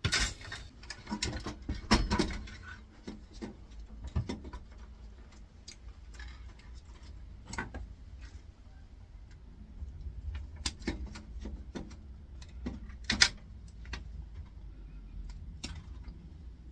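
Irregular clicks, rattles and knocks of small metal and plastic parts being handled and unscrewed while an air fryer is taken apart, busiest in the first couple of seconds.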